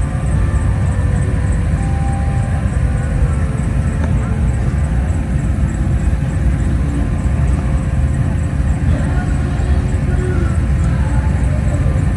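Steady low rumble of cars driving past as they leave a car show, with faint voices in the background.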